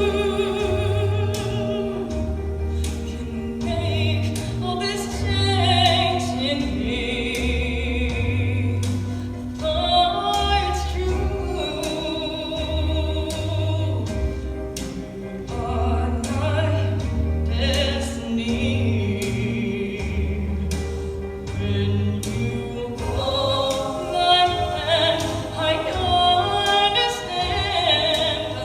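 A song sung with a vibrato-rich, operatic-sounding voice over a backing track with a pulsing bass line and a steady beat.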